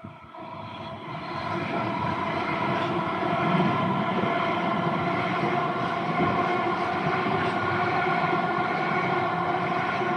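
Train passing close by: a steady hum with several pitched tones over rumbling noise, building over the first couple of seconds and then holding loud.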